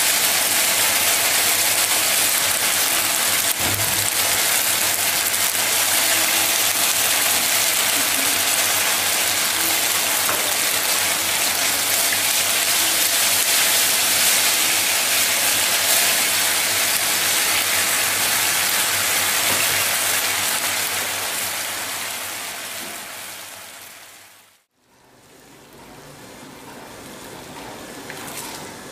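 Thinly sliced pork sizzling steadily in a hot wok in oyster sauce, soy sauce and sugar, frying hot as the sauce dries out and browns. The sizzle fades away about three-quarters of the way through.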